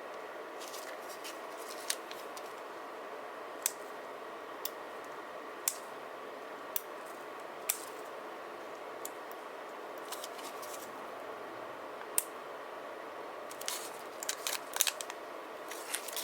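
Scissors cutting paper: single sharp snips a second or two apart, then a quicker run of snips and paper handling near the end, over a steady background hum.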